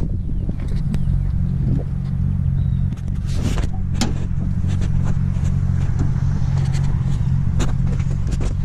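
Turbocharged 6.0-litre V8 of a Chevy SS 1500 pickup idling steadily, a low even rumble, with a few sharp clicks.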